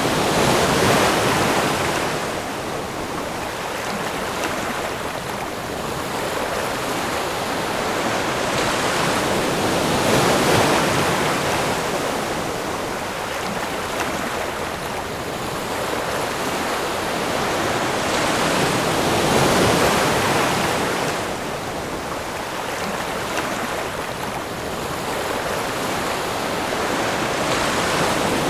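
Ocean surf: a continuous wash of breaking waves that swells and falls back, peaking about every nine seconds, three surges in all.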